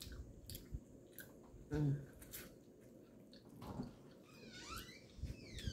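Close-up chewing of a mouthful of corn on the cob, with small wet clicks from the mouth and a short voice sound about two seconds in. Near the end, high sliding chirp-like tones begin.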